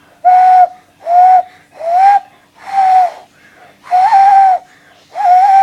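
Hand-cupped owl call: breath blown across the knuckles into cupped hands, making a series of about seven breathy hoots, each about half a second long, one after another at a steady pace, all on roughly the same pitch.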